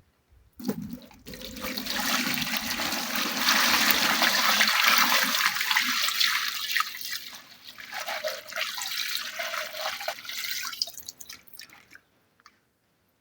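Running water rushing and splashing. It starts abruptly, is strongest in the middle, then thins out and stops shortly before the end.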